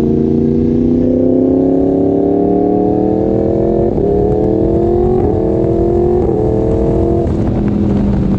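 Yamaha MT-10's crossplane inline-four through an Austin Racing exhaust, accelerating hard up through the gears. The pitch climbs, drops sharply at each of three quick upshifts, then levels off near the end.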